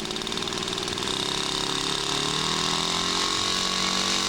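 Engines of a radio-controlled scale model airplane running, their pitch rising slowly from about a second in as the throttle opens for a go-around after an overshot landing approach.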